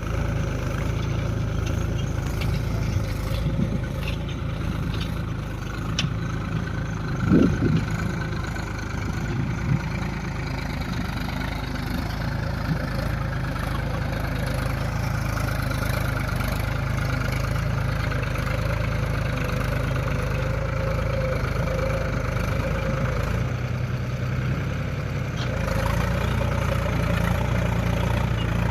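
Mahindra tractor's diesel engine running steadily, with one brief louder burst about a quarter of the way in.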